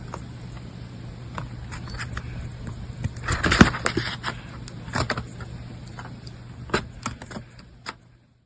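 Handling noise: scattered clicks and scrapes over a steady low hum, with a denser burst of rustling about three seconds in. It cuts off just before the end.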